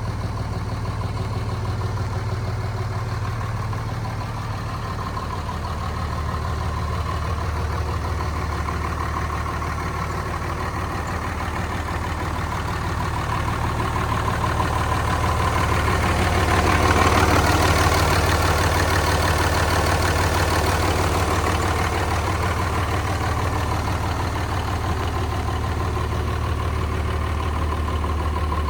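Cummins 5.9-litre inline-six turbo diesel in a 2004 Dodge Ram 2500 idling steadily with a low diesel clatter; it grows louder about halfway through and eases back.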